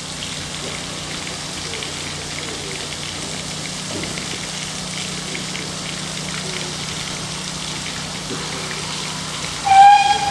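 A steady hissing rush over a low hum, then near the end a loud single-note train whistle, about a second and a half long.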